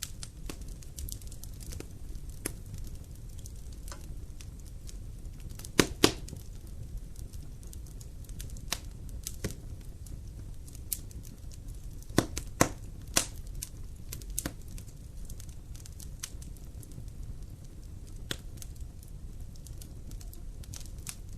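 Wood fire burning in a fireplace: a steady low rumble of flame under frequent sharp crackles and pops, with a few louder pops about six seconds in and around twelve to thirteen seconds in.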